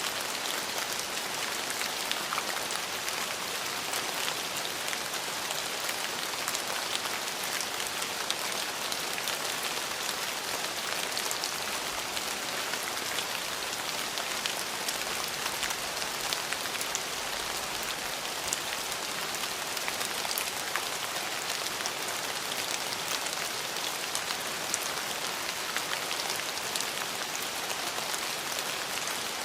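Steady rainfall: a constant hiss of falling rain with many small, sharp drop ticks on surfaces throughout.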